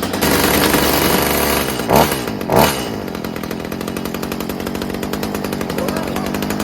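Stihl HS45 hedge trimmer's small two-stroke engine running on its freshly rebuilt carburetor: held at high speed for a couple of seconds, revved twice in quick succession, then settling to a lower steady idle as it warms up.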